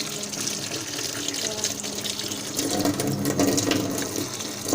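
Tap water running into a sink as a slime is rinsed under it, growing louder a little past halfway through.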